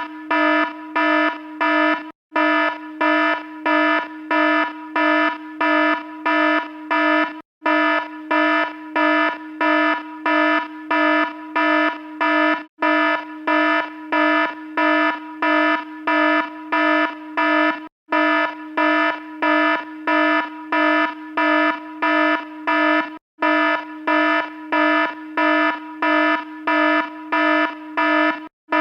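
Electronic alarm sounding, a harsh buzzing tone beeping about twice a second, with a short break every five seconds or so.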